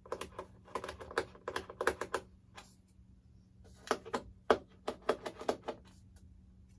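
Rapid, irregular clicks and taps of small plastic parts on a foam RC model jet being handled and pried at, in two bursts of about two seconds each with a short pause between.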